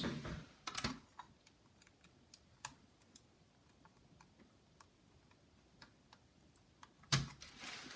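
Faint, scattered small clicks and taps of laptop cable connectors and plastic parts being handled while the connectors are fitted, with a louder click just under a second in and a knock about seven seconds in.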